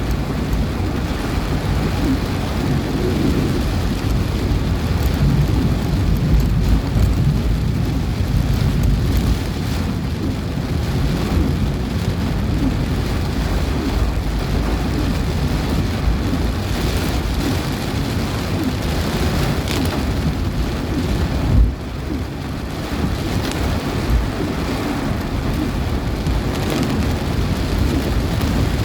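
Heavy downpour with strong, gusty wind, heard as a dense, steady rush over a deep rumble. A brief sharp jolt about two-thirds of the way through.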